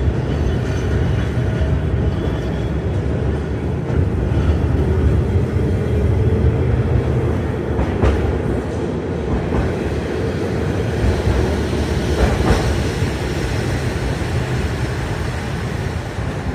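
Tram running on rails with a steady low rumble and a few clacks of the wheels over the rails.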